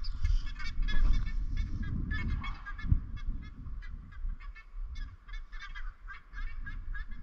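Birds calling over and over in short, harsh honking notes, several a second, with wind rumbling on the microphone.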